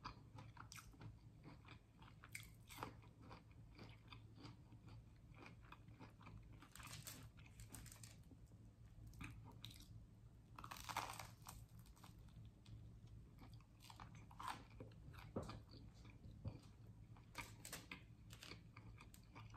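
Quiet close-up chewing and crunching of crispy fried hash brown rounds and a toasted bagel, with clusters of louder crunches about 7, 11 and 17 seconds in.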